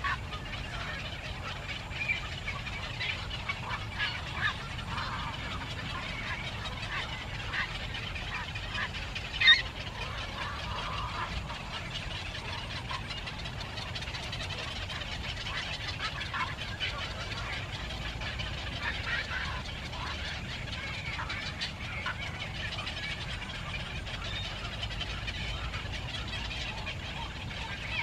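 Birds calling: short chirps and calls scattered throughout over a steady low background rumble, with one louder, sharp call about nine and a half seconds in.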